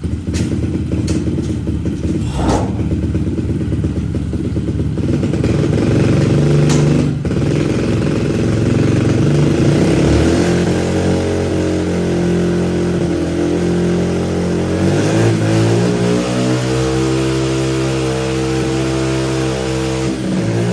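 Pit bike engine running hard and revving, its pitch rising and dropping several times and held high near the end.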